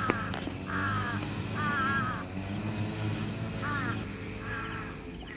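A bird calling about five times in harsh, half-second calls, over a steady low engine hum.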